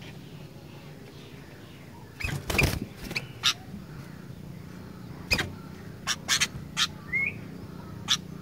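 Sooty-headed bulbul (kutilang) giving short, sharp chirps in irregular clusters, with one brief rising note about seven seconds in, over a steady low hum.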